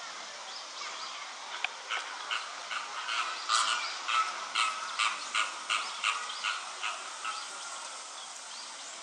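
A bird calling a series of about a dozen short, sharp notes, roughly two a second, growing louder and then fading, over a steady background hiss.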